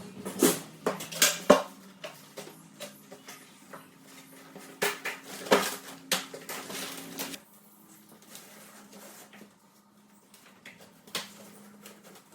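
Hard plastic knocks and clicks, as of split-system air conditioner covers and parts being handled and fitted, loudest in the first two seconds and again around the middle. A steady hum runs beneath them and stops about seven seconds in, leaving only a few faint clicks and one more knock near the end.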